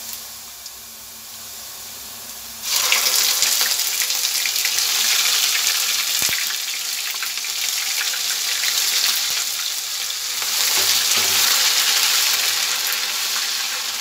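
Hot oil in a kadhai sizzling softly, then, about three seconds in, wet onion paste is tipped into it and the oil breaks into a loud, steady sizzle that carries on as the paste fries and is stirred.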